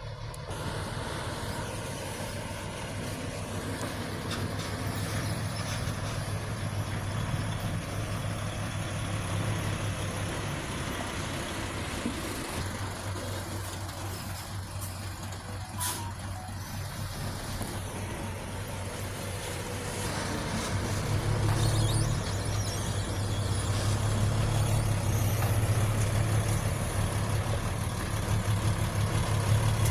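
Heavy diesel earth-moving machinery engine running steadily, louder in the last third. A single sharp click sounds about halfway through.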